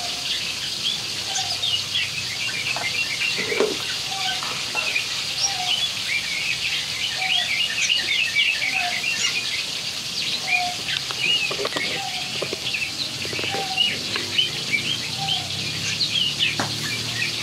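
Birds chirping: a dense, continuous stream of short, high chirps, with a lower short call repeating about every second and a half.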